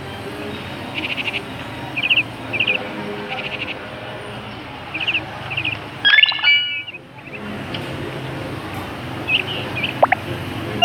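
Small bird chirping in short quick clusters, with a louder call about six seconds in, over a steady low hum.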